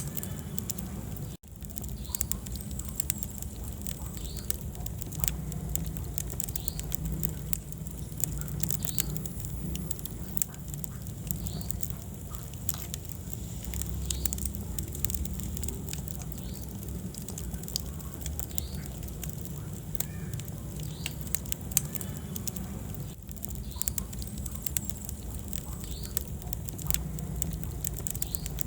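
Wood fire in a fireplace crackling, with frequent sharp pops and snaps over a low, steady rumble of the flames. The sound drops out for an instant about a second and a half in.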